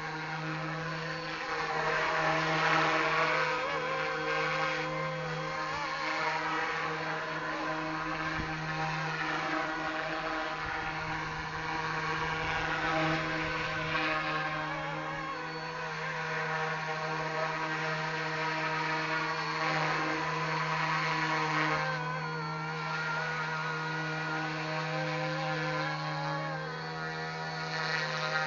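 Yuxiang Airwolf scale RC helicopter in flight: a steady electric-motor whine and rotor hum whose pitch wavers slightly and whose loudness swells and fades every few seconds as it manoeuvres.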